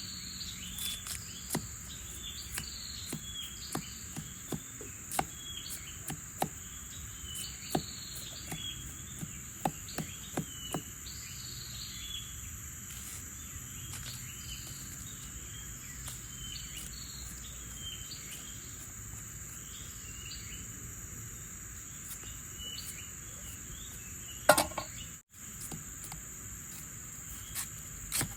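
Insects chirring steadily, with many short repeated chirps over the drone and scattered clicks and taps. There is a louder knock about 24 seconds in, then a brief dropout in the sound.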